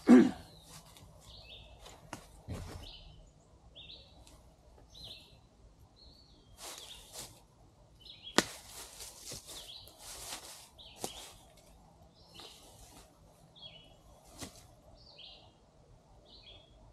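A small bird gives short, high chirps over and over, about one a second, over bursts of rustling. There is a loud thump at the very start and a sharp click about eight seconds in.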